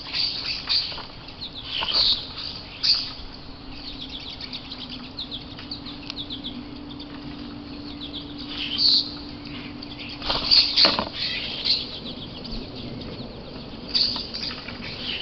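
Small birds chirping in short, high calls again and again, with wing flutters and sharp taps, the loudest cluster of taps about ten to eleven seconds in.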